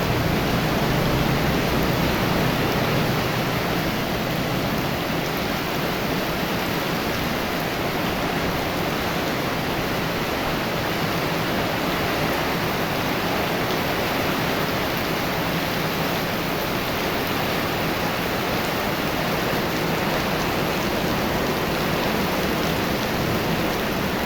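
Heavy rain falling, a dense, steady hiss with no letup.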